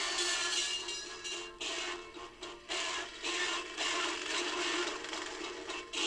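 A noisy jumble of sound effects mixed with music on an old children's record, choppy and uneven in loudness with brief dips.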